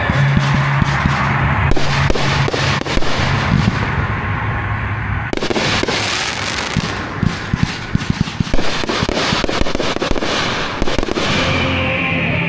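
Fireworks going off in quick succession: many overlapping bangs and crackles, with a steady low hum underneath for the first few seconds.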